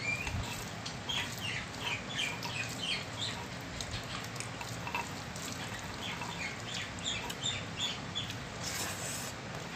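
Small birds chirping in short runs of quick high calls, one cluster in the first few seconds and another near the end, over a steady low background hum.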